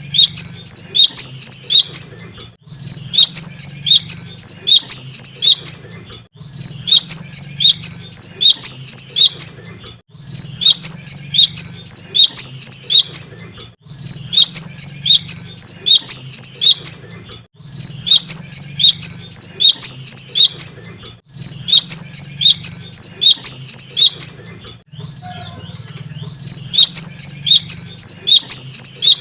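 Cinereous tit (gelatik batu) singing: phrases of about three seconds, each a rapid run of high, repeated chirping notes, come one after another with short breaks between them. A steady low hum runs underneath.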